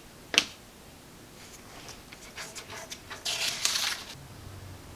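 Handling noise: a sharp click about half a second in, then a run of light clicks and a brief scraping rustle about three seconds in.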